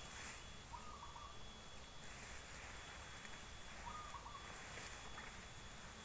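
A bird giving a short call twice, about three seconds apart, over a faint steady insect whine and soft rustling of vegetation.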